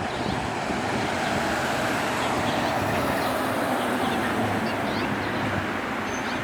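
Steady city street traffic noise, with a hiss of tyres swelling a little near the middle as a vehicle goes by.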